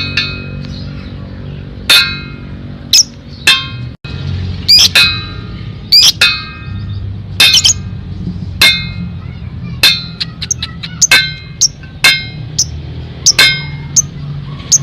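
Lovebird giving shrill, sharp chirps, one at a time or in quick pairs, over steady background music.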